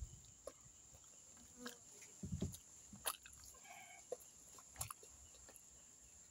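Faint sounds of a person eating with her fingers: soft chewing and scattered small clicks and knocks, with a low thump about two and a half seconds in.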